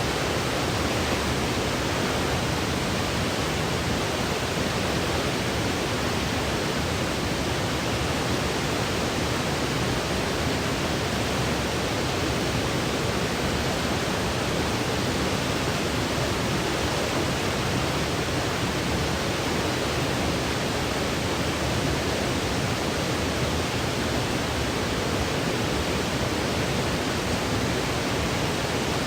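Steady electronically generated white noise: an even, unchanging hiss with no breaks or events.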